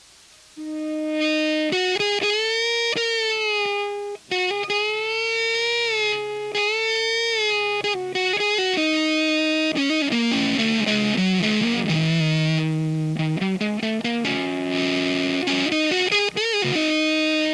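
Electric guitar played through a Diaz-style Square Face fuzz pedal: sustained, heavily fuzzed notes with bends and vibrato, starting about half a second in, with a brief break near the fourth second.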